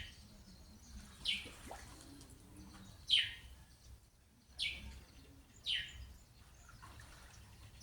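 A bird calling: four short, high notes, each falling sharply in pitch, spaced a second or two apart.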